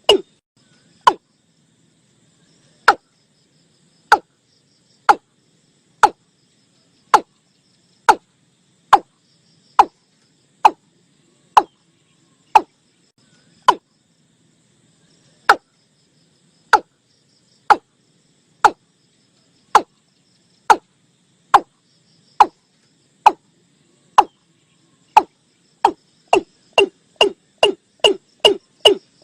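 Watercock (Gallicrex cinerea) calling: a repeated series of short, clipped notes, about one a second, that speeds up to about three a second near the end. This is a recorded lure call used for attracting watercocks.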